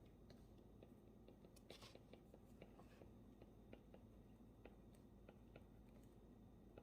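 Near silence: faint room tone with scattered small desk clicks and taps, and a brief rustle a little under two seconds in.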